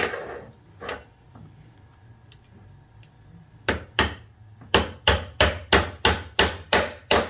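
Hammer driving a roll pin into an anti-blowup tool's body: two blows, a pause of nearly three seconds, then a run of about ten sharp strikes, most of them at roughly three a second.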